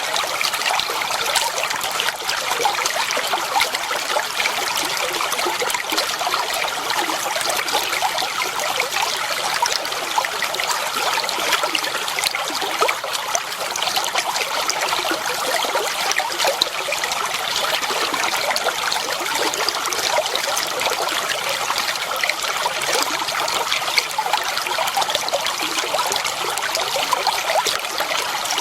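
Clear running water trickling and splashing steadily without a break, a bright sound with little low rumble.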